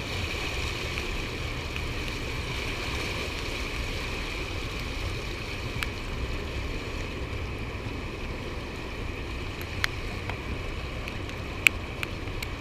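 Steady rush of fast river water below a dam, with wind buffeting the microphone. A few sharp clicks break through in the second half.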